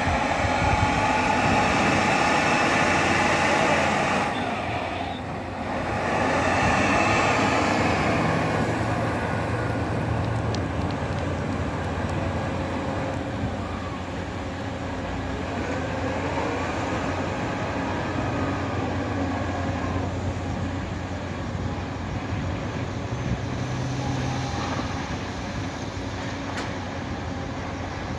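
Scania 164 580's 16-litre V8 diesel running under way. It dips briefly about five seconds in, builds again, then settles to a steadier, somewhat quieter drone.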